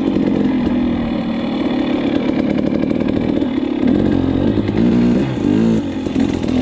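Dirt bike engine running at a steady speed, then revving up and down several times from about four seconds in as the rider works the throttle.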